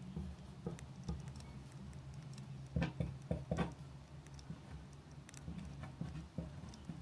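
Campfire crackling: irregular small pops and snaps over a steady low hum, with two louder cracks about three seconds and three and a half seconds in.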